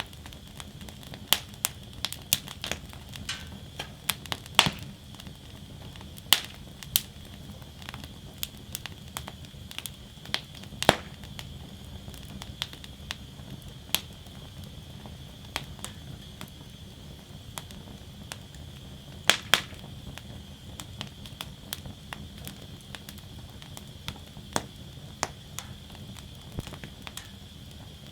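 Wood fire burning in a steel fire basket, crackling with sharp pops at irregular intervals over a steady hiss.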